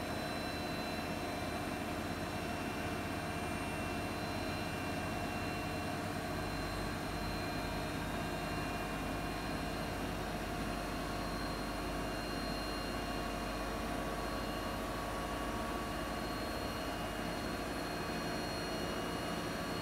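Siemens iQ300 8 kg washing machine running steadily in its spin cycle with wet laundry in the drum, a constant hum. This is the normal, fault-free spin sound, with no knocking from worn shock absorbers or drone from failing drum bearings.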